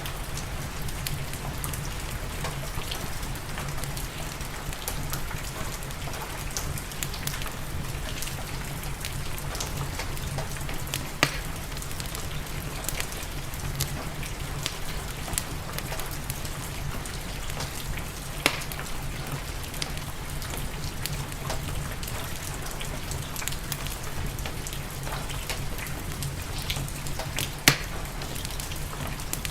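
Steady rain mixed with a crackling wood fire in a fireplace, many small crackles and three louder sharp pops spread through.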